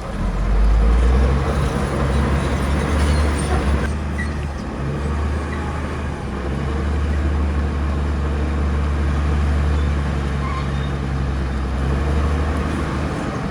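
Diesel engine of heavy earthmoving machinery running steadily, a low drone that gets louder about half a second in.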